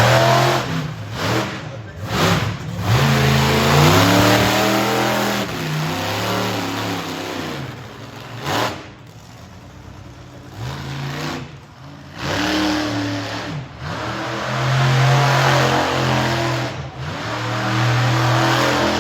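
Monster truck engine revving hard in repeated bursts, its pitch climbing and falling, with brief drops off the throttle between bursts and a short lull about halfway through.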